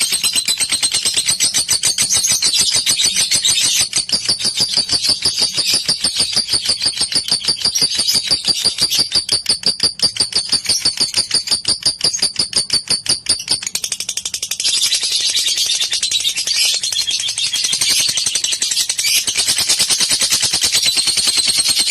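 Lovebird calling in a long, rapid, unbroken chattering trill of high-pitched chirps, changing to a busier, less regular chatter a little past the middle.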